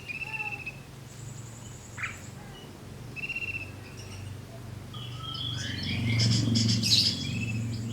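A group of caged songbirds calling: short trilled calls and a high thin trill, then a dense burst of overlapping chirps about six seconds in, over a low steady hum.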